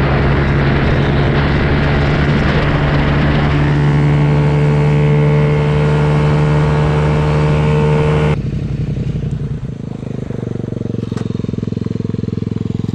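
Mini bike's small single-cylinder four-stroke engine running hard at a steady high pitch. About eight seconds in, the sound changes abruptly to a lower, quieter engine running with an even pulse, near idle.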